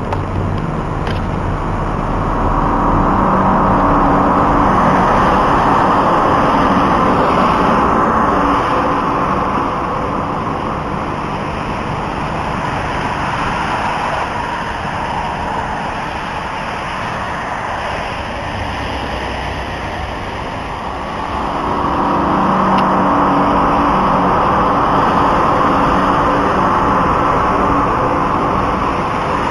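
A loud, sustained rumbling drone with a low hum beneath it: the kind of eerie noise reported as a 'strange trumpet sound from the sky'. It swells up a few seconds in, eases off through the middle, and swells again about two-thirds of the way through.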